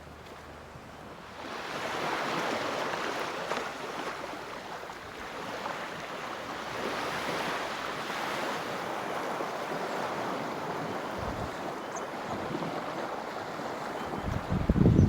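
Small waves washing onto a beach, a steady hiss of surf that swells about a second and a half in and rises and falls. Near the end a gust of wind buffets the microphone.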